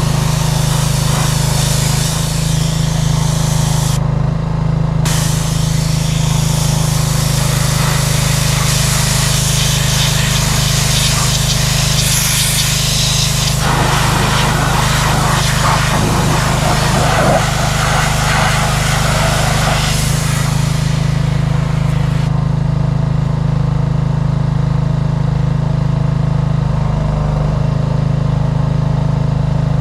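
Petrol pressure washer running steadily while its water jet sprays, the hiss of the spray changing as it hits different surfaces. The spray stops about two-thirds of the way through and the engine runs on, its note dipping briefly near the end.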